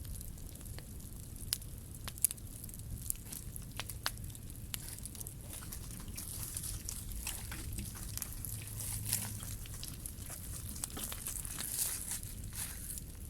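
Scrap-wood bonfire crackling, with sharp, irregular pops over a low steady rumble; the crackling grows denser about halfway through.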